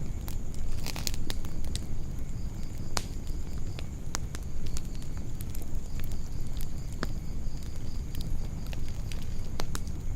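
Wood campfire crackling, with scattered sharp pops, over a low steady rumble. A steady high-pitched drone runs behind it.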